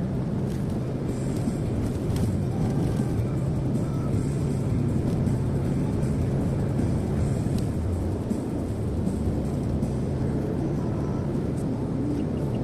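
Car cruising on a highway, heard from inside the cabin: a steady low drone of engine and tyres on the road.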